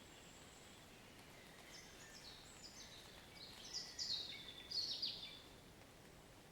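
Faint, steady hiss of light rain, with a songbird singing a rapid run of short descending high notes from about two seconds in to about five seconds in, loudest near its end.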